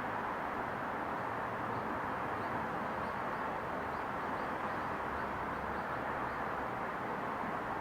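Steady outdoor ambience of a residential area in daytime: an even rushing noise of distant town sound and wind, with a run of faint high chirps in the middle.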